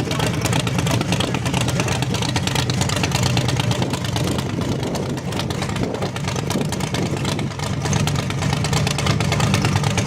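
Car engine noise, running steadily and loud with a deep hum, growing a little stronger near the end.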